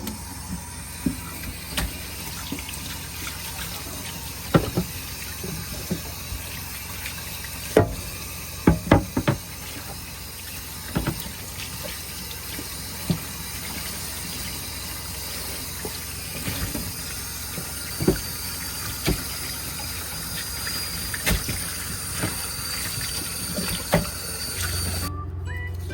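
Water running steadily from a tap into a sink, with scattered short knocks and clinks.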